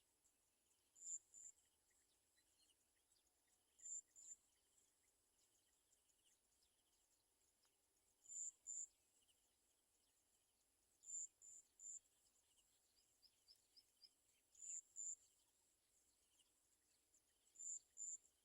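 Short, very high-pitched chirps from a small bird, coming in pairs or threes about every three seconds, with a quick run of four softer notes about two-thirds of the way through. A faint insect-like buzz sits underneath.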